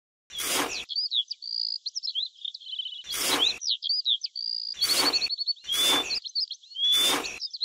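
A small steel trowel scraping and chopping into dry, crumbly sand mix, five short scrapes of about half a second each. Chirping birdsong runs underneath from about a second in.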